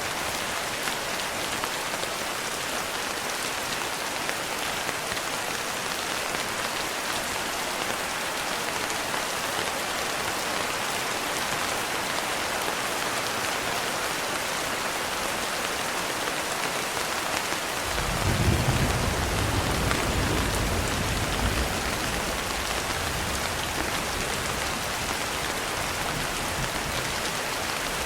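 Steady rain on a window, an even hiss. About 18 seconds in, a low rumble of thunder sets in suddenly and dies away over a few seconds.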